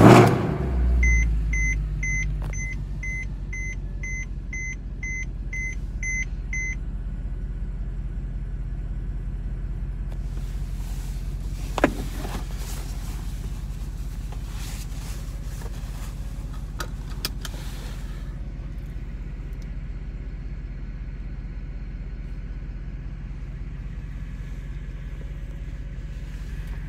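2015 Mercedes C63 AMG's 6.2-litre V8 cold-starting: it fires with a loud flare, then settles into a steady idle that slowly grows quieter, heard from inside the cabin. A warning chime beeps about twice a second for the first few seconds.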